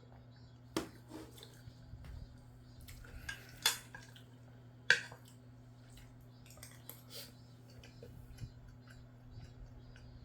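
Eating utensil clinking and scraping against a bowl of rice, egg and gochujang, with three sharper clinks, about one, three and a half and five seconds in, among lighter taps, over a steady low hum.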